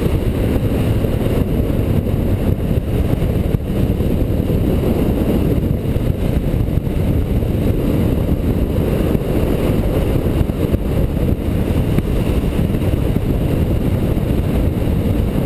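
Motorcycle riding along at a steady pace: engine and road rumble mixed with wind buffeting the camera's microphone.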